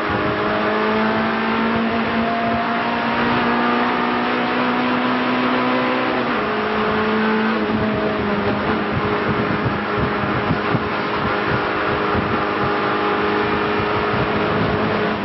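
Renault Clio race car's engine under hard acceleration, heard from inside the cabin: the revs climb steadily for about six seconds, drop suddenly at an upshift, then hold fairly steady.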